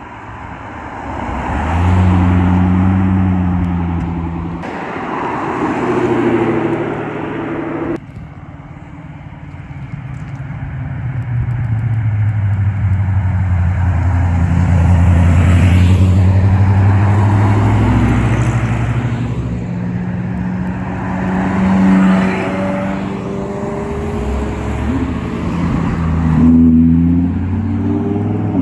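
Cars driving past one after another at low speed, their engines running with deep steady notes that swell and fade as each one passes, with a few small rises in pitch. The sound breaks off abruptly a few times, at about 5 and 8 seconds in and near the end.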